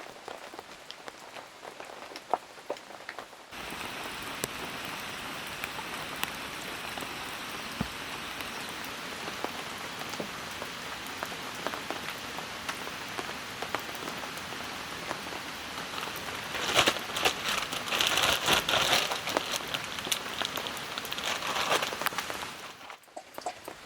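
Rain falling steadily, pattering on surfaces with scattered individual drop hits. For several seconds near the end the drops hit harder and closer together.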